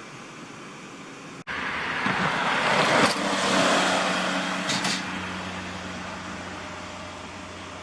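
A truck drives past, its noise swelling to a peak about three seconds in and then fading into a steady low engine hum, with short high hisses near the peak and again about five seconds in.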